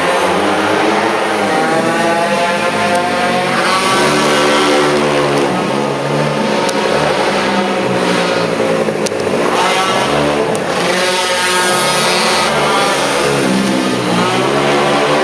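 Pocket bike's small two-stroke engine at racing speed, its pitch climbing and dropping again several times as it accelerates and backs off the throttle.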